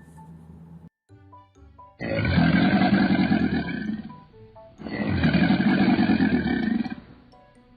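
Crocodile growling in two long, loud, rough bellows of about two seconds each, after a few soft musical notes.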